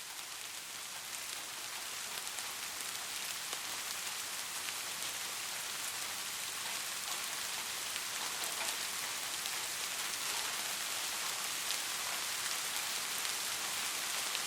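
Steady rain falling, a dense hiss of drops with individual taps heard through it, growing a little louder over the first few seconds and then holding steady.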